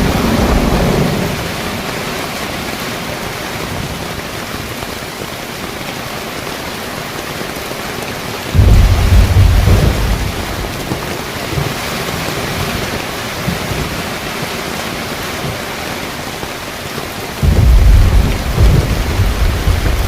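Heavy rain falling steadily, with deep rumbles of thunder that come in suddenly twice, about eight seconds in and again near the end, each lasting a few seconds.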